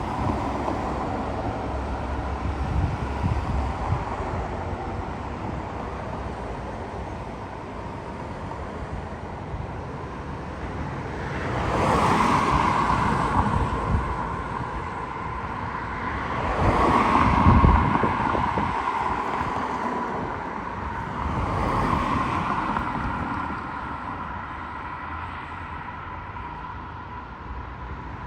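Road traffic: vehicles driving past one after another, each swelling and fading, the loudest about two thirds of the way through, with wind on the microphone.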